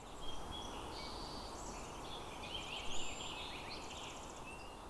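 Several birds chirping and calling, short whistled notes and a quick trill, over a steady low outdoor background hiss.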